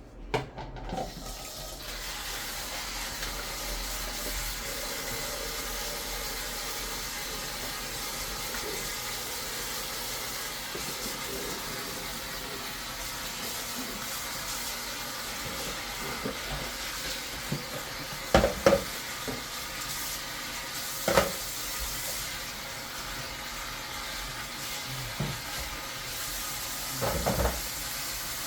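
Water running from a kitchen sink tap while a knife and cutting board are washed; the flow starts about a second and a half in and runs steadily. A few knocks and clatters of the utensils come in the last third.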